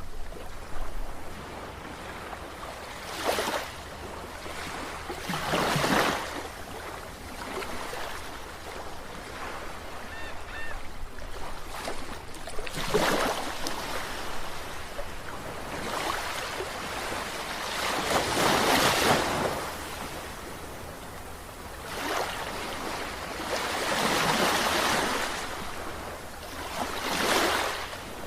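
Sea waves breaking and washing in, the rush of surf swelling and fading every few seconds.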